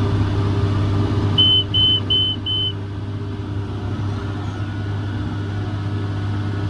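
John Deere 7410 tractor's six-cylinder diesel running steadily under load, heard from inside the cab. About a second and a half in come four short, evenly spaced beeps from the in-cab baler monitor.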